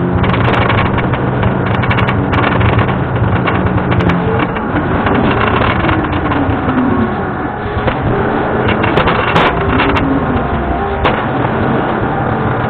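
John Deere skid steer's diesel engine working under load, its note rising and falling as the machine works. Occasional sharp metallic clanks come through over it.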